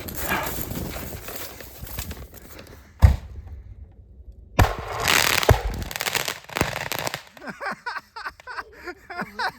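Fireworks going off inside a strapped-shut deer feeder: hissing and crackling, then a sharp bang about three seconds in. After a short lull a second bang sets off a burst of hissing crackle and more pops, which die away about seven seconds in. The blasts blow the lid off the feeder.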